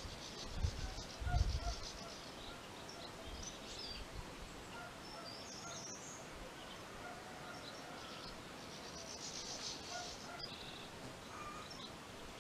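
Birds chirping and twittering in short high calls, busiest near the end, over faint background hiss. A few low rumbles come in the first couple of seconds.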